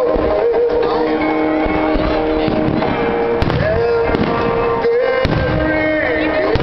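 Fireworks shells bursting, with low booms and two sharp cracks a little after the middle, over continuous music with long held, wavering notes.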